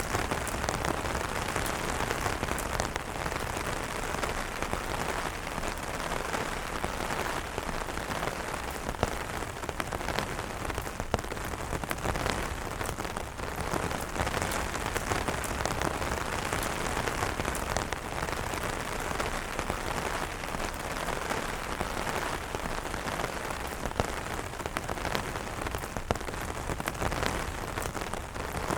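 Steady rain falling on umbrellas: a dense, even hiss with many separate drops tapping through it.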